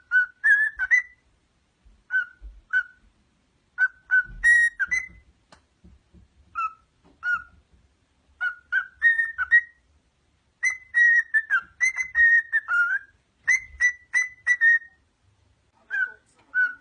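A parrot whistling: many short, sharp whistled notes on two or three close pitches, in bursts of a few notes separated by brief pauses.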